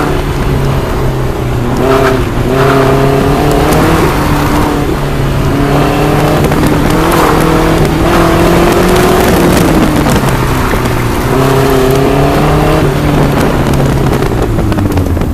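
Car engine heard from inside an open-top convertible, revving up in steps and falling back again and again under hard driving, with a dip around the middle before it pulls again.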